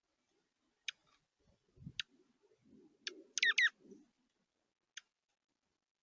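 Small birds at a feeder giving short, sharp chip calls about once a second, with a quick pair of downward-slurred notes in the middle as the loudest. Faint low scratching or rustling underneath.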